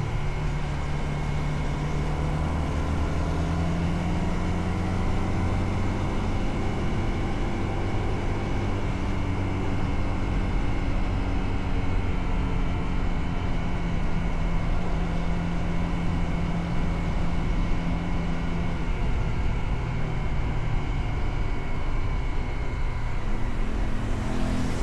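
Motorcycle engine running steadily while riding, with road and wind noise; the engine note changes near the end.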